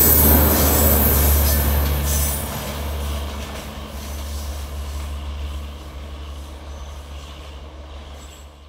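A passing train receding into the distance: its wheel-on-rail noise fades away over a few seconds, leaving a low steady drone that also dies down.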